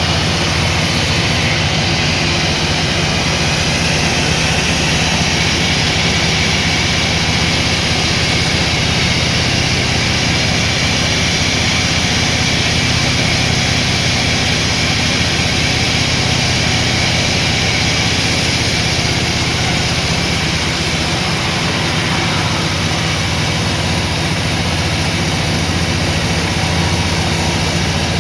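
Sawmill machinery running steadily with a loud, continuous engine-like hum and hiss; the low hum shifts slightly about three quarters of the way through.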